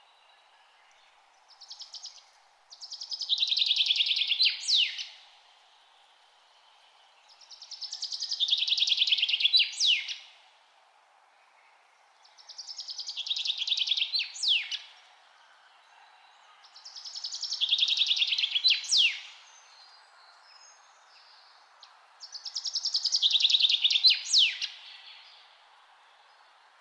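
A songbird singing the same song five times, about every five seconds: each a fast, buzzy trill lasting a couple of seconds that ends in a few sharp downward-sweeping notes.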